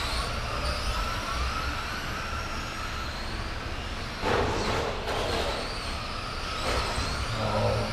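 Several RC racing trucks' motors whining as they race round the track, their pitch rising and falling as they speed up and slow down, with a short clatter about four seconds in.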